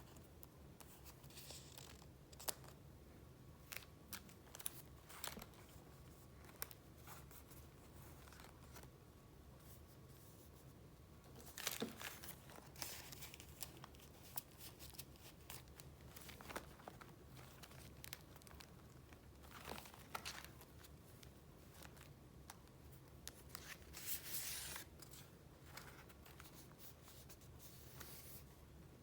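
Paper goods handled and leafed through: faint rustling, crinkling and light ticks of sheets being picked up and moved, with louder rustling about twelve seconds in and again near twenty-four seconds.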